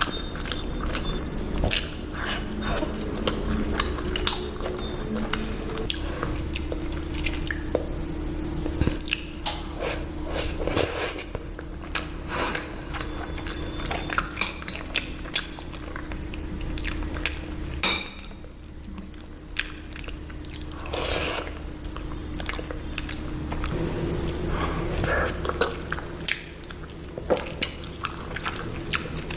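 Close-miked eating sounds of a person chewing and biting into sweets, with many short wet clicks and occasional clinks of utensils against a dish, over a steady low hum.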